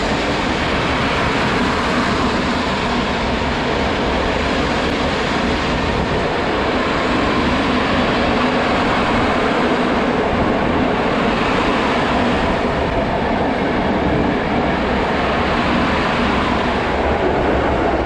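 Freight train of open coal wagons (gondolas) rolling past at speed: a steady loud rumble and rattle of wheels and wagon bodies on the rails. It eases a little in the second half as the last wagons go by.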